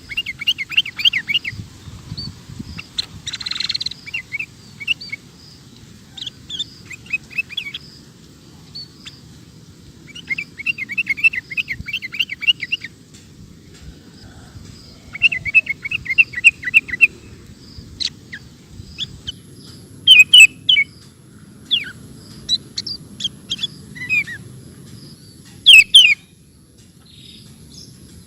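Sooty-headed bulbul (kutilang) calling steadily: several runs of quick chattering notes, then, in the second half, loud sharp falling calls.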